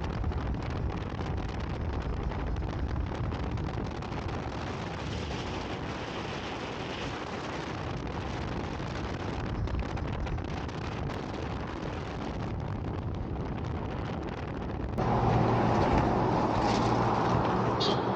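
Wind rushing and buffeting over the microphone of a moving motorcycle, with the Royal Enfield Scram 411's single-cylinder engine running underneath. About 15 seconds in, the sound steps up to a louder, steadier drone with a low hum.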